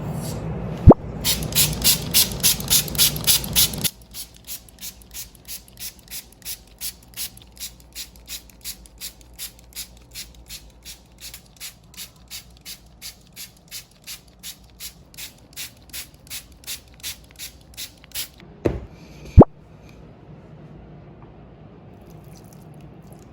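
A trigger spray bottle misting in quick repeated squeezes, about two short hissing sprays a second, louder for the first few seconds and softer after. A sharp click near the start and another near the end.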